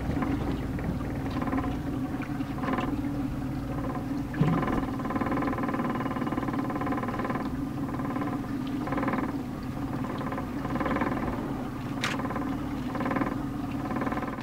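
Boat engine idling with a steady low hum, joined every second or two by a higher sound made of several steady tones together.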